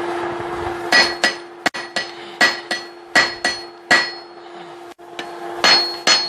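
Hand hammer striking hot steel on an anvil, forging the end of a hammer head flat and square: about ten ringing blows, often in quick pairs, starting about a second in with a short pause near the middle. A steady hum runs underneath.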